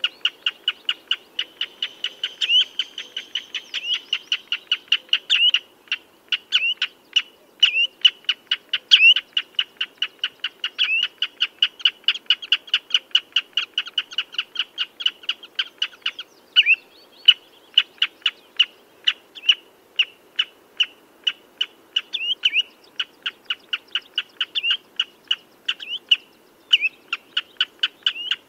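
Common redshank calling: a fast, steady run of short, sharp notes, about four to five a second, with a few brief breaks in the series.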